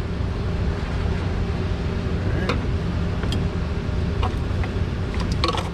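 A few light clicks and taps of hand tools and small engine parts being handled, with a small cluster near the end, over a steady low mechanical rumble and hum.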